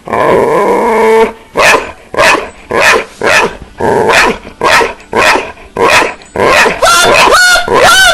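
A dog barking over and over, about twice a second, after a drawn-out opening call lasting about a second; near the end the barks turn into higher, rising yelps.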